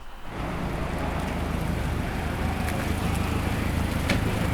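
Car engine running with a loud, rough exhaust rumble, as from a car whose exhaust has been cut. It comes in suddenly just after the start and holds steady.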